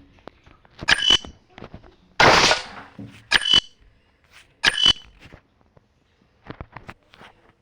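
Sharp metallic clanks with a short ringing tone, three of them about a second and a half apart. There is a longer, noisier crash among them and lighter clicks near the end.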